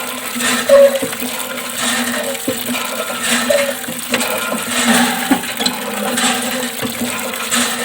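Small mini water pump motor humming steadily while water splashes, with scattered clicks and a short rising chirp recurring every second or two.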